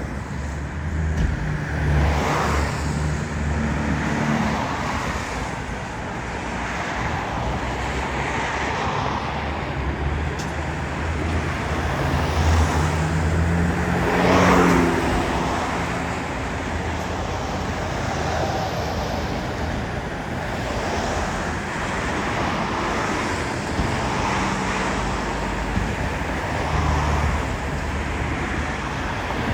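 Road traffic with heavy diesel vehicles passing: the steady engine note of large trucks over road and tyre noise, loudest as one vehicle passes close by about halfway through.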